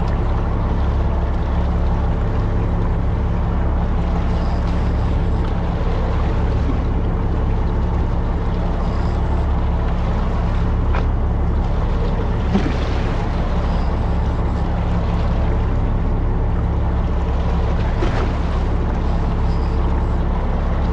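A fishing boat's engine running steadily, a constant low drone under wind and water noise, with a few light knocks on board.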